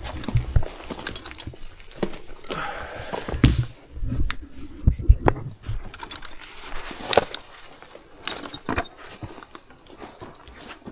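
Irregular clicks, knocks and low thumps of someone moving over loose rock, with scattered sharp clatters.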